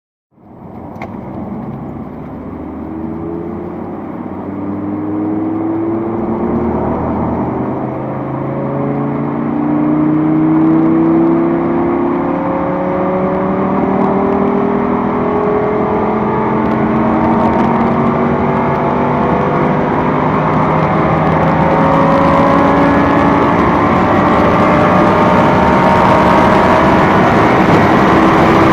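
2017 Audi S8 plus's twin-turbo V8 under hard acceleration, pitch climbing through each gear and dropping back at each upshift, louder overall as speed builds.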